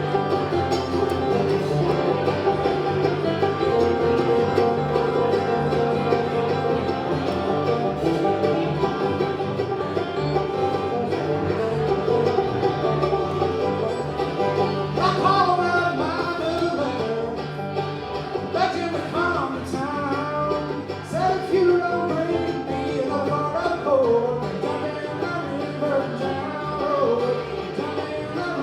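Live bluegrass band playing a tune, with plucked strings over a steady walking bass; about halfway in, a melody line with sliding, bending notes comes to the front.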